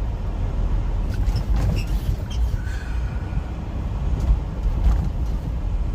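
Semi-truck engine running as a steady low rumble, heard from inside the cab.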